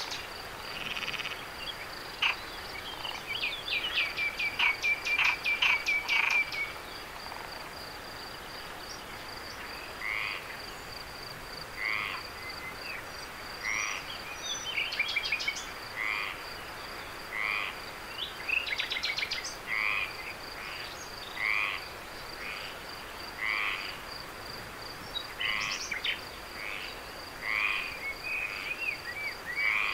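Night chorus of frogs: a quick run of rattling, clicking calls, then single croaks repeating about every second and a half to two seconds, over a steady high insect trill.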